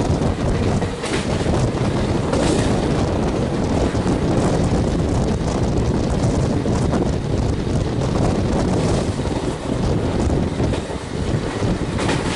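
Express passenger train running past at speed: a steady loud roar of wheels on rail with a few faint knocks, and wind buffeting the microphone.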